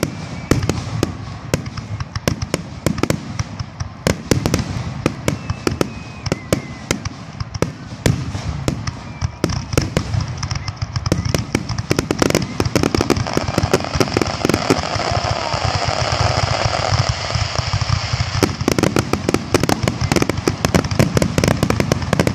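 Fireworks grand finale: aerial shells bursting in rapid succession, many bangs a second over a continuous rumble, coming thicker and faster from about halfway through.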